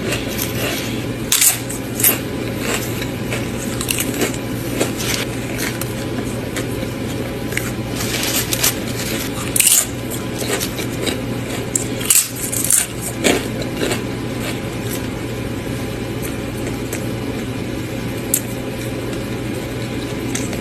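Close-miked chewing and biting of a Subway sandwich: soft mouth sounds broken by sharp crunches and clicks every few seconds, over a steady low hum.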